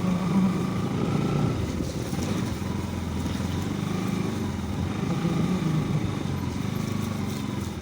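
Motorcycle engine running while riding, a steady low hum under a rushing noise.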